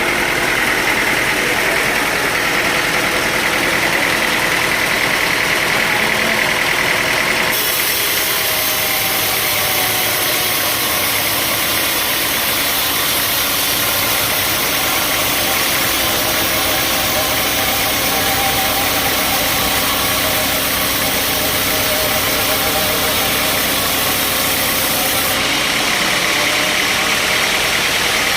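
Sawmill machinery running loud and steady, an engine-driven saw at work. Its sound changes abruptly about seven seconds in and changes back near the end.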